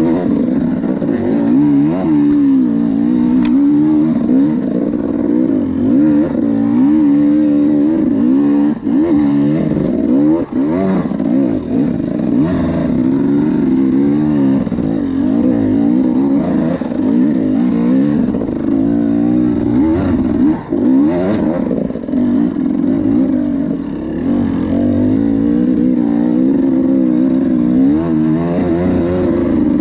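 Enduro motorcycle engine running hard on a trail, its pitch rising and falling again and again as the throttle opens and closes, with a few brief drops when the throttle is shut.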